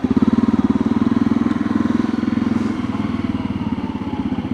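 Honda CRF250L's single-cylinder four-stroke engine running steadily at low revs, an even rapid putter of firing pulses with no rise in pitch, a little louder in the first second or so.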